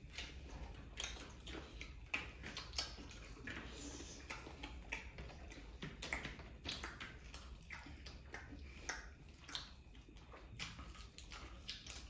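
Close eating sounds of two people chewing and tearing paratha by hand: quiet, irregular wet mouth clicks and smacks.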